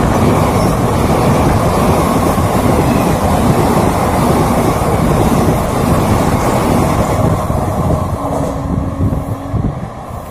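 Passenger coaches of a superfast express train passing at speed close by: a loud, steady rush and clatter of wheels on rail. It eases off about eight seconds in as the last coach goes by, with a brief steady tone around then.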